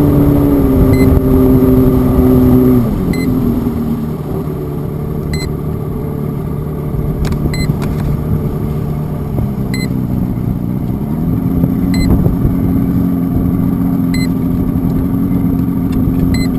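An engine running at a steady pitch. It drops in revs about three seconds in and picks up again around eleven seconds.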